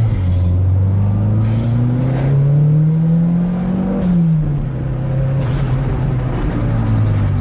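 Turbocharged Toyota MR2 engine accelerating hard on high boost: its pitch climbs for about four seconds, drops sharply at an upshift, then climbs again in the next gear.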